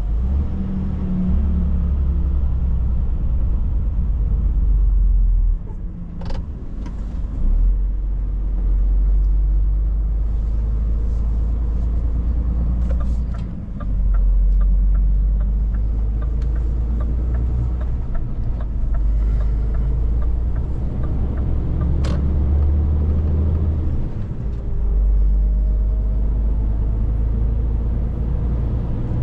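Scania 500S truck running at road speed, a steady heavy low drone. The drone dips briefly three times, and there are a couple of sharp clicks and a short run of light ticks.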